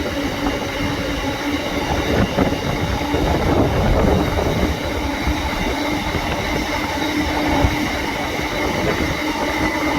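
A train of empty freight wagons rolling past behind a Class 90 electric locomotive: a steady rumble of wheels on rail, with high steady tones running through it.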